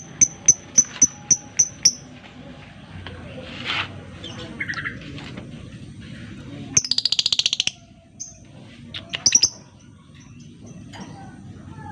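Lovebird calling: a quick run of sharp, high chips, about four a second for two seconds, then scattered chirps and a rapid rattling trill lasting about a second, followed by a few more chips.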